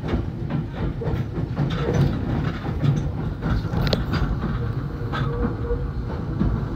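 Nankai 8000 series electric train rolling over pointwork into a terminal platform, heard from inside the leading car: a steady low rumble with irregular clicks and knocks as the wheels cross rail joints and crossings.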